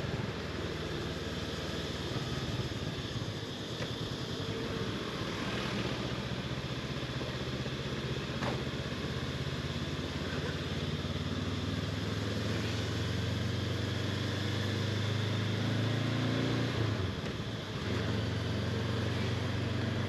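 Honda CB500X parallel-twin engine running steadily while riding, with wind and road hiss. The engine note climbs a little past the middle, drops briefly about three-quarters of the way through, as at a gear change or easing off, then picks up again.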